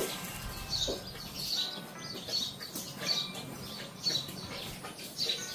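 Small birds chirping repeatedly, short high chirps about twice a second.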